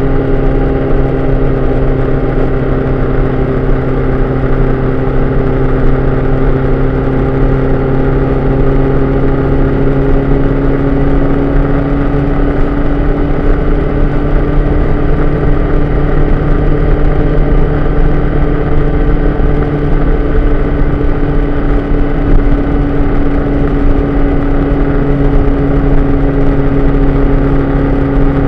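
Vehicle driving at a steady speed on a wet road: a constant engine drone with tyre and wind noise, heard from a microphone on the outside mirror arm.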